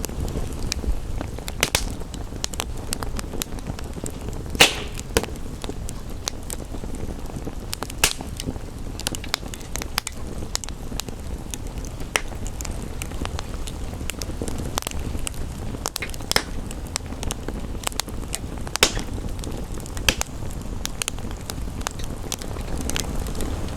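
Wood fire crackling, with irregular sharp pops and snaps, the loudest about four and a half seconds in, over a steady low rumble.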